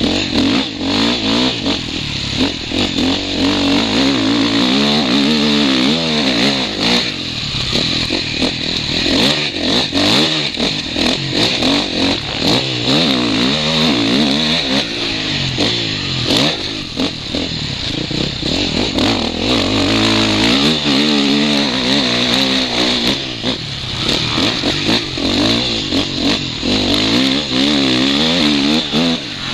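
Motocross bike's engine under load, revving up and dropping again and again through the gears, heard close from the rider's goggle camera. A steady rushing noise runs under it.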